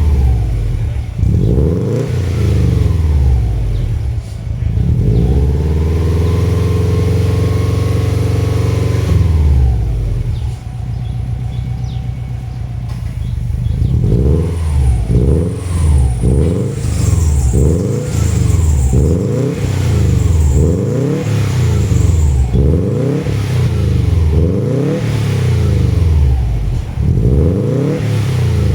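Subaru Legacy GT-B's turbocharged flat-four engine revved through a Fujitsubo Super Ti exhaust. It blips up and down, holds a high rev for a few seconds, falls back to idle, then is blipped again and again in quick succession, about once a second.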